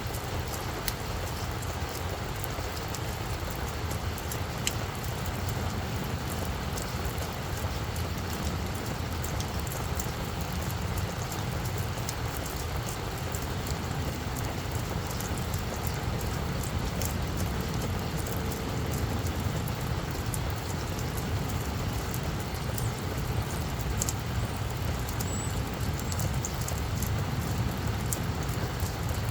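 Steady rain falling, with scattered sharp drop ticks over a continuous low rumble.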